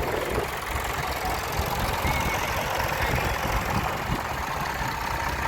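Tractor engine idling steadily, over the open-air hubbub of a show ground.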